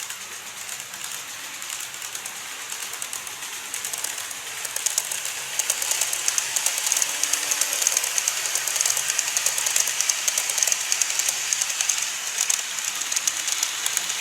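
Model railway train running along the track, its wheels clicking rapidly over the rail joints with a high hiss, growing louder over the first few seconds as it comes closer.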